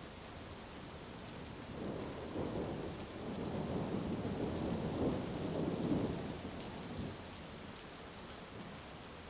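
Heavy rain falling steadily, with a roll of thunder that swells about two seconds in, peaks around five to six seconds and rumbles away about seven seconds in.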